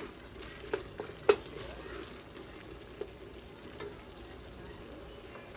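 Vegetables cooking in a butter-and-flour roux, sizzling softly in a large pot while a spoon stirs and scrapes, with several sharp knocks of the spoon against the pot, the loudest about a second in.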